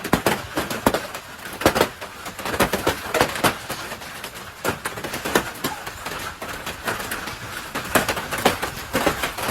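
Large hailstones striking a hard surface: an irregular clatter of many sharp impacts over a steady hiss of falling hail and rain.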